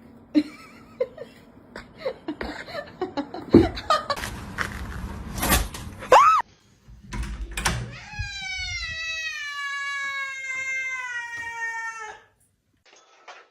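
A cat giving one long, drawn-out yowl of about four seconds, slowly falling in pitch. It follows several seconds of knocks and scuffling clatter.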